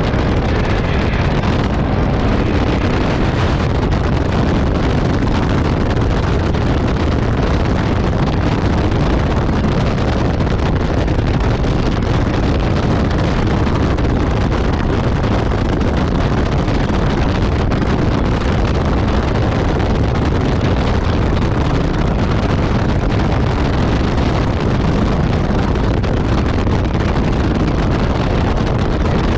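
Steady wind rushing over the microphone of a motorcycle riding at speed, with the bike's running and road noise blended underneath, unchanging throughout.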